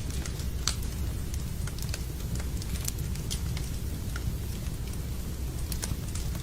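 Wood fire crackling in a fireplace with steady rain: irregular sharp pops and snaps over a continuous low rumble.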